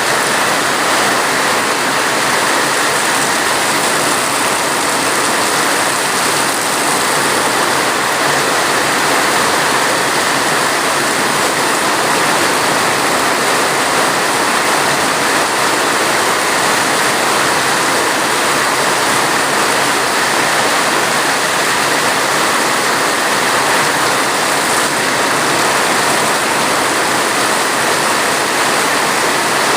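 Steady, heavy rainfall: a dense, even hiss of rain with no breaks or changes.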